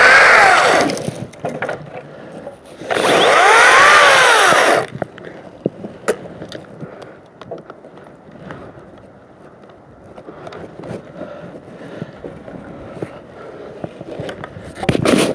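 Makita 18V cordless chainsaw's electric motor whining at full speed, winding down within the first second. It is run up again for about two seconds, its pitch rising and then falling as it slows, followed by a stretch of scattered small clicks and knocks. A short loud burst comes near the end.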